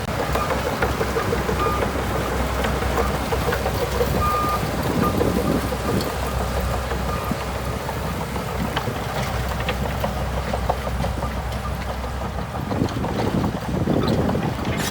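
Shantui DH17C2 bulldozer's diesel engine running steadily, with occasional short clicks.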